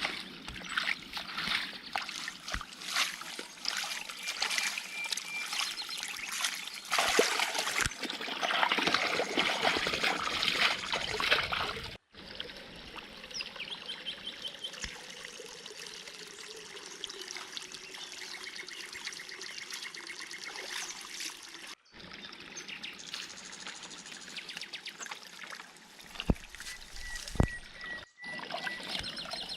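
Water trickling and pouring with small splashes, broken by edits into several stretches, with birds chirping at times.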